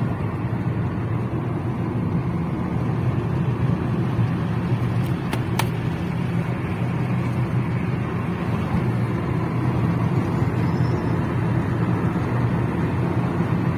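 Steady vehicle running noise, a low even drone of engine and road, with a couple of faint clicks about five seconds in.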